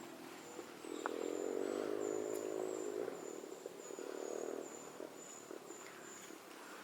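Woodland ambience: a steady series of short, very high chirps repeating throughout, from an insect or small bird. About a second in, a humming pitched drone swells for a couple of seconds, returns briefly, then fades.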